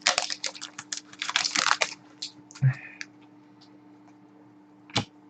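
A quick run of light, sharp clicks and taps for about two seconds, thinning out, then a single short knock and scattered faint clicks.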